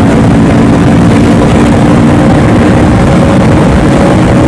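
Honda CBR500R's parallel-twin engine running steadily at highway speed, with heavy wind rush over it.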